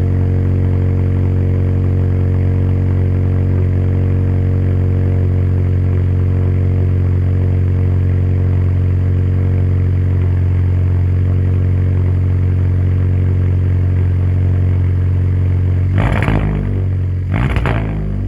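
2017 Hyundai Elantra Sport's 1.6-litre turbo four-cylinder, straight-piped with the muffler deleted, idling steadily on a cold start, then blipped twice in quick revs near the end.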